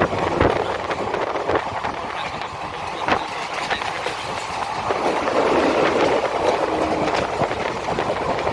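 Passenger train running on the rails: a steady rumble and rush with a few sharp wheel knocks over rail joints.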